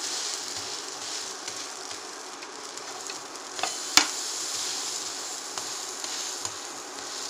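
Buttered bread sandwiches sizzling steadily as they toast in a nonstick pan. About four seconds in, a sharp knock of the spatula against the pan as a sandwich is flipped.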